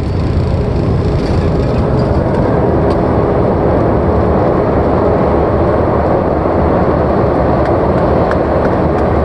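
Light airplane's engine and rushing airflow making a steady, loud rumble during a landing in a gusty crosswind.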